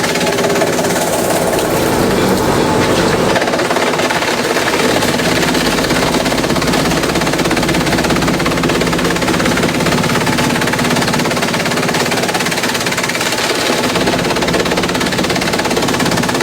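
Industrial bamboo shredder running and shredding bamboo: a steady motor drone under a dense, rapid, unbroken rattle.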